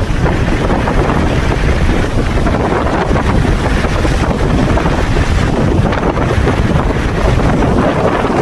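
Blizzard wind blowing hard across the microphone: a loud, steady rumbling buffet with no let-up.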